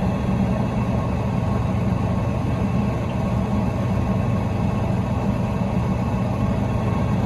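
Steady low mechanical drone of running commercial kitchen equipment, with a constant hum and no breaks or changes.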